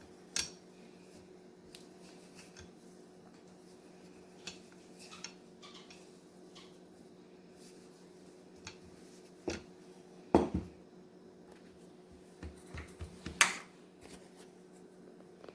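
Sparse knocks and clicks of kitchen utensils against a counter as biscuit dough is rolled out and cut, over a faint steady hum. The loudest knocks come about ten and thirteen seconds in.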